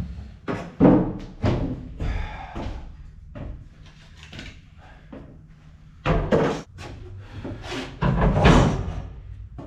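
Irregular thumps and knocks on a timber boat floor, the loudest about six seconds in and again about eight seconds in, over quiet background music.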